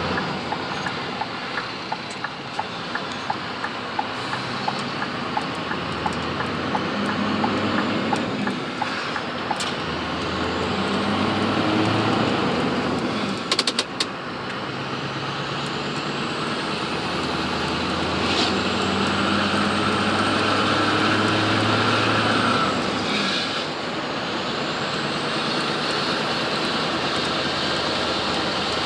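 Scania R500 V8 diesel truck with an open exhaust pipe, heard from inside the cab while driving. The engine note builds and then drops back twice, as if pulling through the gears. There is a regular ticking over the first several seconds and a few sharp clicks about halfway.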